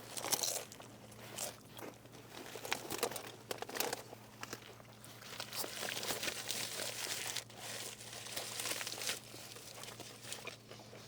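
Food packaging crinkling and crunching close to the microphone, a dense run of short irregular crackles, over a steady low hum.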